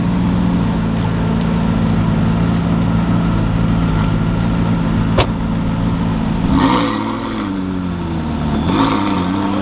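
Lamborghini Aventador's naturally aspirated V12 idling steadily, then blipped twice, about seven and nine seconds in, the pitch rising and falling back each time. A single sharp click a little past halfway.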